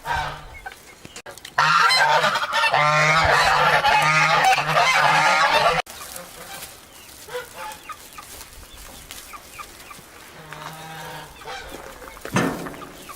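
A flock of farmyard poultry calling loudly together for about four seconds, starting and stopping abruptly, then fainter scattered calls.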